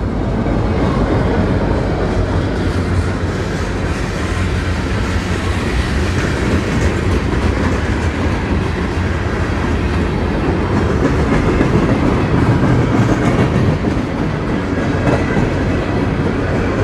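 Freight train rolling past steadily on the main line, its wheels and cars clattering over the rails.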